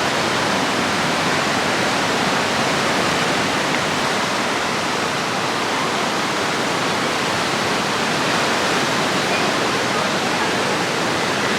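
Steady, loud rushing of falling or flowing water, an even unbroken roar of noise.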